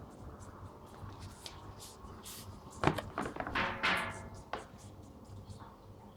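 Cat chewing a gecko: a run of small, irregular wet clicks and crunches, with a louder knock about three seconds in followed by a short noisy burst.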